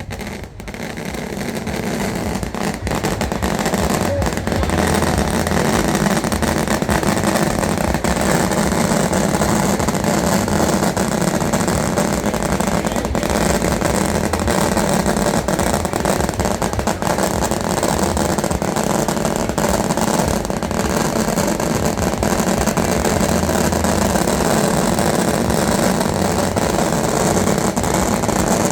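A motor vehicle engine running steadily, building up over the first few seconds and then holding a constant level.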